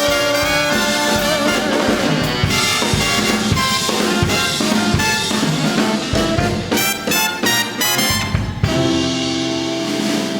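Big band brass section and drum kit playing the closing bars of a swing tune, with a run of short accented hits about seven to eight and a half seconds in, then a held final chord.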